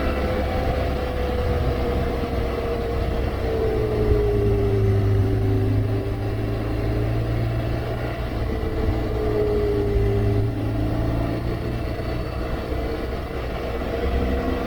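BMW R1200GSA's boxer-twin engine running steadily under way over a low rushing noise, its pitch easing down a few seconds in and again past the middle as the bike slows a little.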